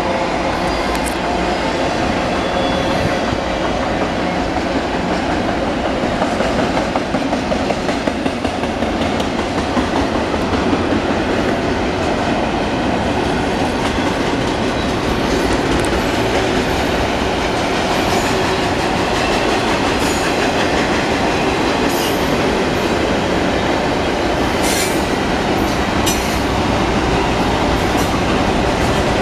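Union Pacific intermodal freight train of double-stack container cars rolling past: a steady loud rumble of wheels on rail, with sharp clicks scattered through the second half.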